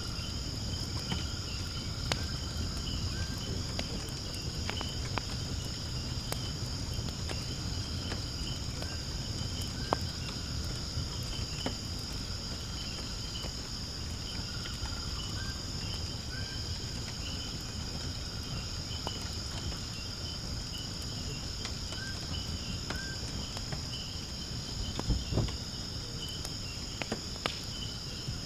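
Insects trilling steadily in high continuous chirring, over a wood fire burning in a fire pit with scattered sharp crackles and pops and a low rumble from the flames.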